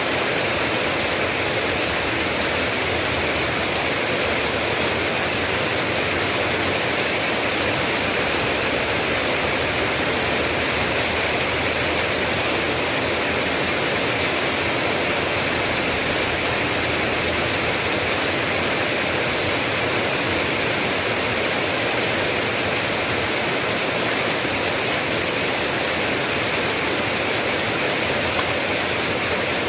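Steady heavy rain falling, an even hiss with no distinct drops or breaks.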